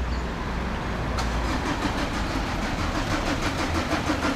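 A motor vehicle running nearby: a steady low rumble, with a fast, even ticking that starts about a second in.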